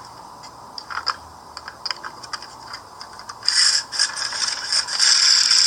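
Broken plastic talking mechanism from a See 'n Say toy being handled: a few small clicks, then scraping and rattling about three and a half seconds in that goes on to the end.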